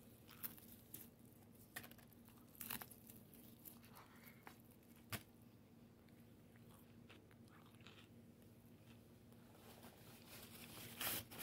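A person biting into and chewing crispy breaded fried chicken: faint, scattered crunches, a sharper one about five seconds in, and a few louder ones near the end.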